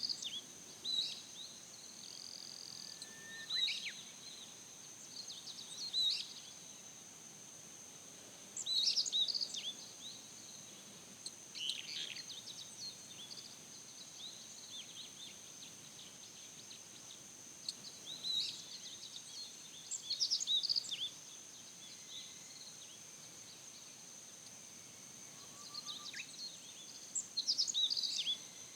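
Wild birds chirping in short clusters of calls every few seconds, over a steady, high-pitched insect trill that runs without a break.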